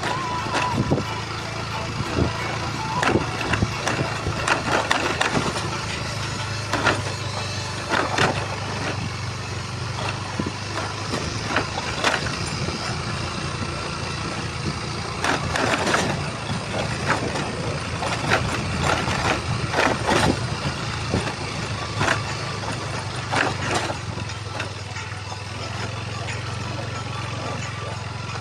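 A vehicle engine running steadily, with repeated short clunks and knocks from the vehicle as it goes over a rough road.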